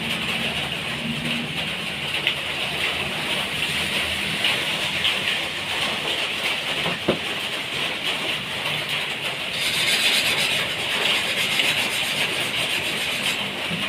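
A steady hiss, strongest in a high band, with a single faint click about seven seconds in; it grows a little brighter about ten seconds in.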